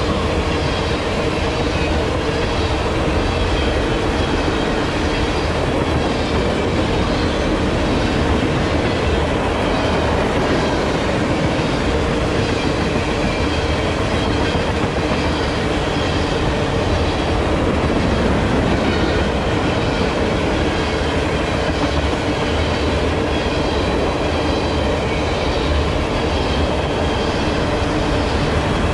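Freight train of tank cars rolling past: a steady rumble of steel wheels on rail with a rhythmic clickety-clack as the cars' wheels pass over the rail joints.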